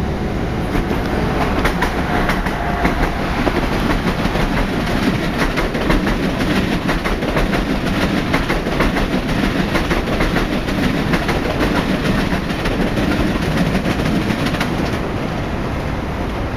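PATH train rolling along the track: a steady rumble of wheels on rail with rapid clicking and clatter from the rails, busiest midway and easing near the end.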